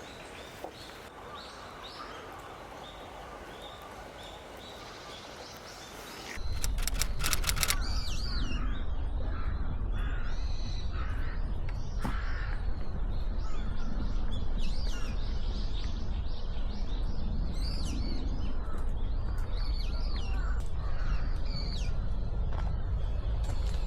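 Wild birds calling, many short calls repeated one after another. About six seconds in, a few clicks are followed by a low rumble like wind on the microphone that runs under the calls.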